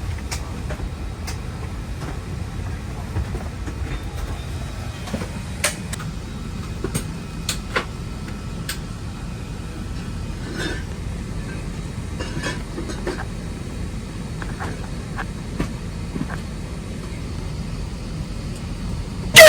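Airliner cabin noise in flight: a steady low rumble with scattered light clicks and taps.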